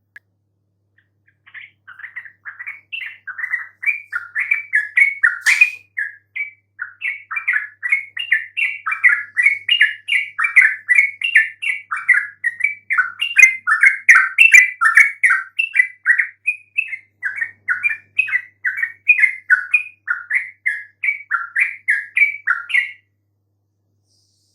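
Yellow-vented bulbul singing a long, rapid run of bubbling chirps, several notes a second, which stops about a second before the end.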